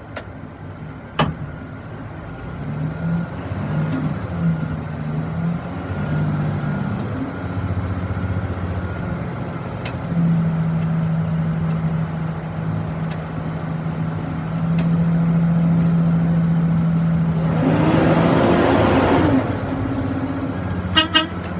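Diesel engine of an aircraft pushback tug running under load while pushing an aircraft, its pitch shifting at first and then holding steady and louder. A short rush of noise near the end, followed by a few clicks.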